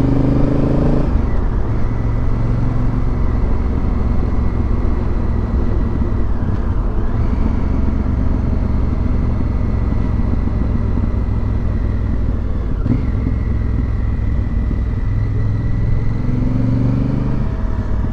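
Motorcycle engine running under way, with steady wind and road noise. The engine's pitch rises as it pulls in the first second and again near the end.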